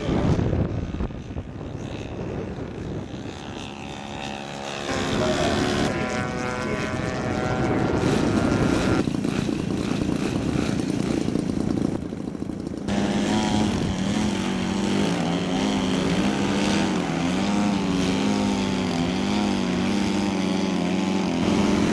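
Large-scale radio-controlled model aircraft engine and propeller running in flight, the drone wavering up and down in pitch as the model passes and the throttle changes. The sound changes abruptly about five and about thirteen seconds in.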